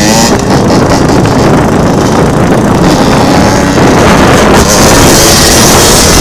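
Honda CR85 two-stroke dirt bike engine running loud and close, its revs rising briefly at the start, with heavy wind noise on the microphone.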